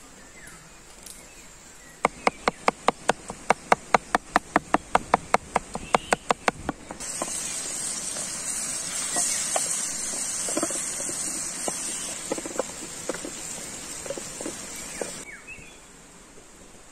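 A quick, even run of loud sharp knocks, about five a second, lasting about five seconds. Then chopped peppers and tomatoes sizzle in a metal tray over the fire, with a wooden spatula knocking and scraping in the tray, until the sizzle cuts off near the end.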